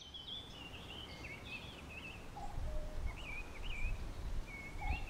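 Birds singing in short, wavering high phrases, repeated every second or so, over a steady low outdoor background hum.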